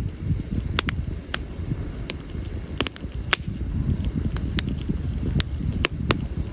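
Campfire of burning wood crackling: irregular sharp pops and snaps, about two a second, over a low steady rumble of the flames.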